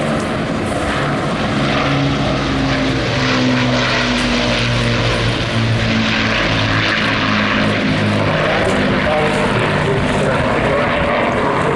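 Avro Lancaster's four Rolls-Royce Merlin piston engines running in flight, a steady multi-engine propeller sound whose pitch wavers slightly as the bomber passes.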